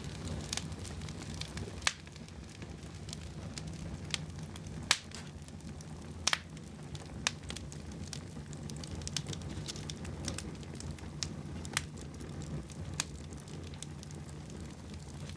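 Wood fire burning in a fireplace, with sharp crackles and pops at irregular intervals over a steady low rumble of the flames.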